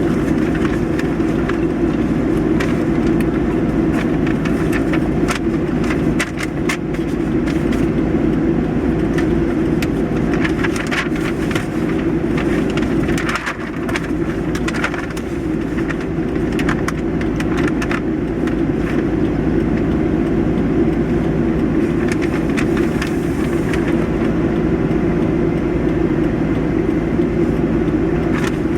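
Steady running noise of a road vehicle, a constant low rumble with scattered small clicks and rattles throughout.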